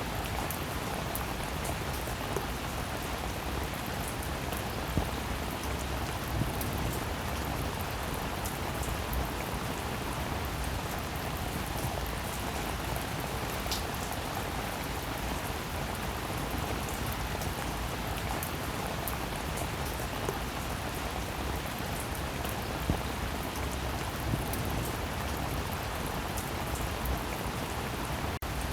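Steady rain falling, a constant hiss with individual drops ticking sharply on top. The sound drops out for an instant near the end.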